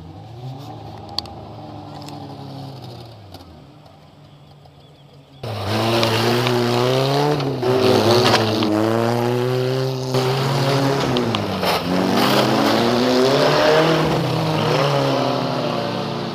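Small-displacement racing cars of the 1200 to 1800cc class running at race speed, several engines at once, their pitch repeatedly rising and falling as they rev and shift. The sound is moderate at first, then jumps suddenly loud about five seconds in.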